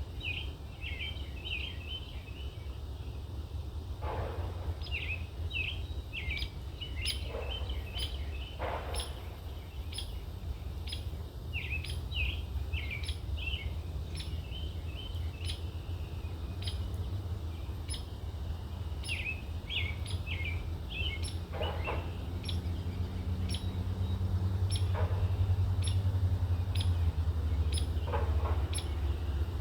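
Hairy woodpecker nestlings begging from their tree-cavity nest: dense runs of short, high chirps, with a few louder calls from other birds now and then over a steady low rumble.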